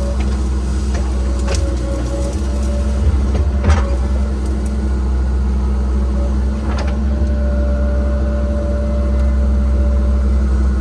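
Cat 306 mini excavator's diesel engine running steadily under work, with a steady whine above it. A few sharp cracks of brush and wood snapping break through, the loudest a little past a third of the way in.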